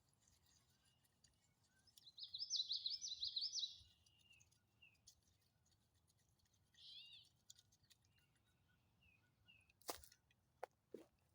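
A songbird singing a quick trill of rapidly repeated high notes about two seconds in, lasting under two seconds, then a shorter phrase a few seconds later. A sharp click or two near the end.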